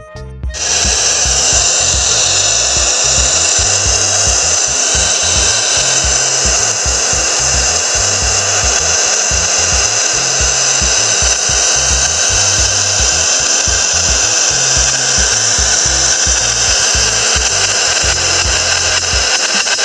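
Loud steady hiss of pressurised gas blowing through refrigerator tubing as it is flushed to clear a choke, starting abruptly about half a second in. Background music with a steady low beat plays underneath.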